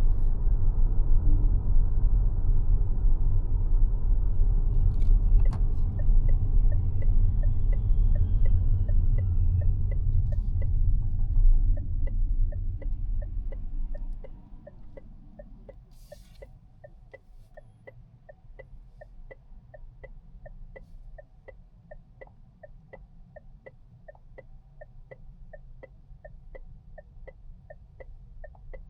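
Cabin sound of a Mazda 6e electric car driving: low tyre and road rumble that drops away sharply about halfway through as the car slows. A turn-signal indicator ticks steadily about one and a half times a second from about six seconds in.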